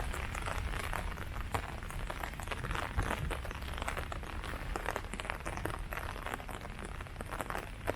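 Steady rain pattering on leaves, a dense, irregular patter of drops with a low steady rumble underneath.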